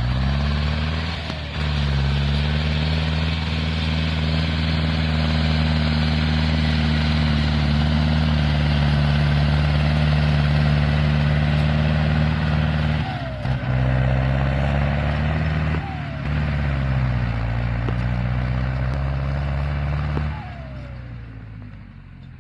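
Zetor 6245 Turbo tractor's turbocharged diesel engine running steadily at a constant speed, its pitch dipping briefly and recovering a few times, then dying away near the end.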